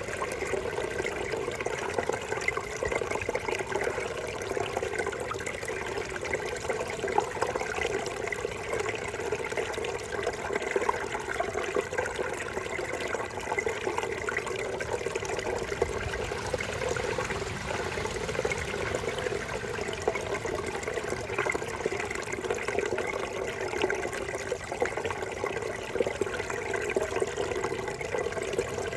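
Babbling brook: water running and burbling steadily over stones.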